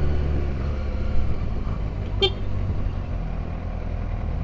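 Kawasaki Ninja ZX-6R 636's inline-four engine idling steadily, with a single very short high beep about two seconds in.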